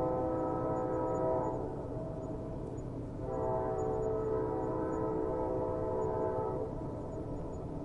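Train horn sounding two chord-like blasts over the steady low rumble of a train: the first ends about a second and a half in, the second starts about three seconds in and is held for over three seconds.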